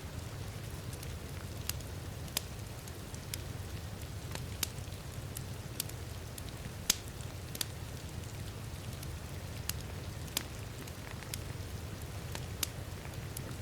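Wood fire crackling in a fireplace, with sharp irregular pops about once a second, over a steady hiss of heavy rain and a low, even rumble.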